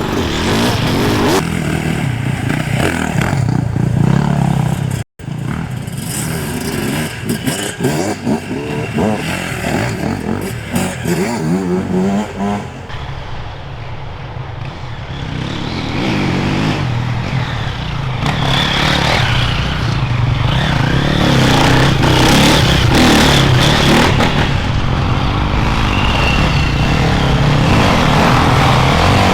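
Off-road enduro motorcycles riding past, engines revving up and down, with clattering and knocks. The engine sound grows louder and steadier in the second half.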